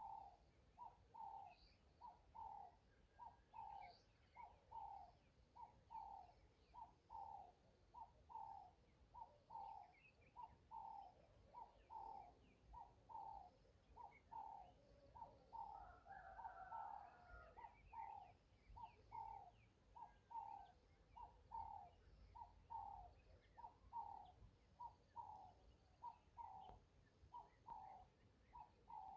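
A bird calling faintly over and over, short notes about three every two seconds, with occasional higher chirps.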